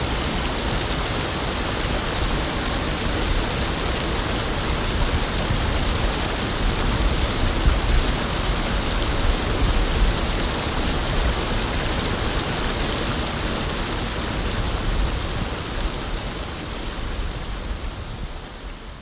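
Stream water rushing and splashing over rocks and small check dams, a steady dense rush that fades out over the last few seconds.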